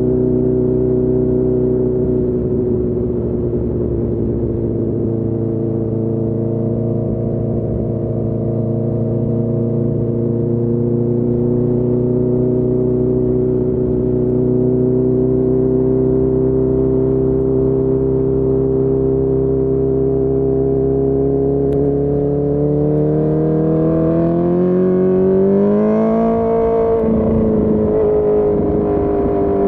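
Honda CB1000R inline-four motorcycle engine with a full Akrapovic exhaust, heard while riding at a steady, slowly climbing pitch. About three quarters of the way through, the pitch rises more steeply as the bike accelerates, dips briefly, then holds.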